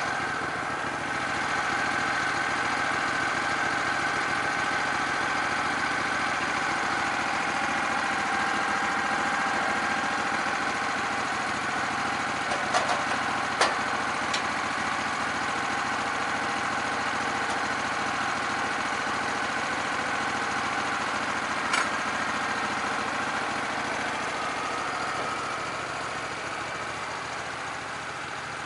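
Small engine running steadily at an even speed, most likely the sawmill's engine, with a few short sharp knocks around the middle and once more later.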